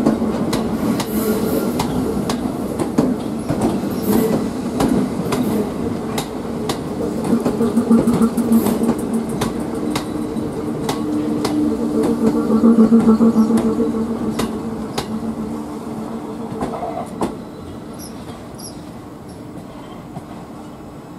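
Class 442 electric multiple unit pulling out past the platform: wheels clicking over rail joints and points, with a steady hum from the train. It is loudest about two-thirds of the way through, then fades as the train draws away over the pointwork.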